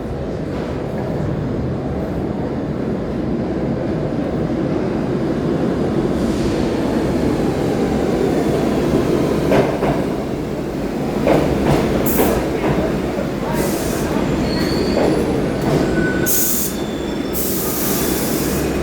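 New York City Subway 1 train running through the station, a steady rumble that grows louder, with sharp wheel squeals and clanks through the second half.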